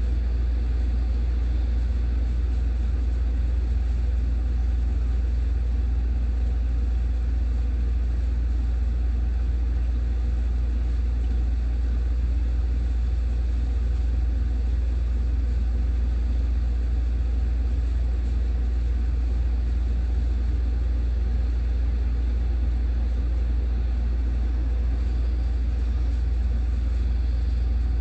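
A steady, unchanging low rumble with a faint hiss above it and no separate events.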